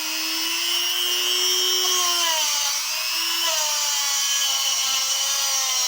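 Small corded high-speed rotary tool running at raised speed with a wire brush working the steel jaws and teeth of lineman's pliers. It is a steady motor whine over a high brushing hiss, and the pitch wavers and dips between about two and four seconds in as the brush is pressed against the metal.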